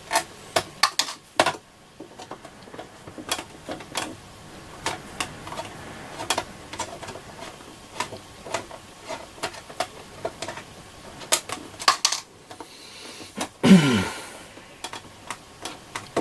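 Irregular clicks and clatters of small parts and tools being handled on a workbench during the teardown of a radio receiver. Near the end comes one louder scrape that drops in pitch.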